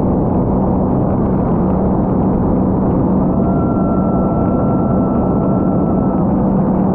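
Sea-Doo GTR230 personal watercraft with its supercharged three-cylinder engine running steadily at speed under a dense rush of noise. A faint high tone comes in for about three seconds midway.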